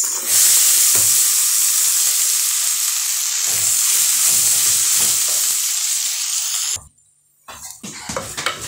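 Green grams (mung beans) sizzling as they are tipped into hot oil with frying onions and herbs in an aluminium pot. The spoon knocks and stirs under the steady sizzle. The sizzle cuts off suddenly near the end, followed by the scrape of the wooden spoon.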